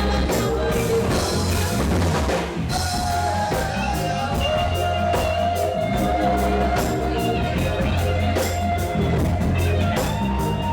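Live reggae band playing an instrumental passage without vocals: steady bass, drum kit with regular cymbal strokes, and guitar and keyboard lines held over the beat.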